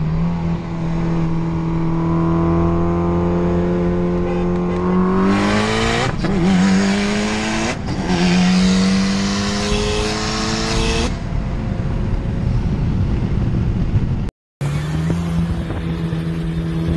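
Turbocharged four-cylinder of a VW Golf GTI with an IS38 turbo upgrade at full throttle, heard from inside the cabin: the engine note climbs with the revs, drops briefly at two quick upshifts about six and eight seconds in, and falls away as the throttle is lifted about eleven seconds in. After a sudden cut near the end, a steady engine note is heard from another shot.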